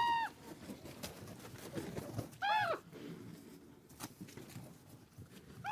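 An animal giving a short, high call that rises and falls in pitch, three times, about two and a half to three seconds apart.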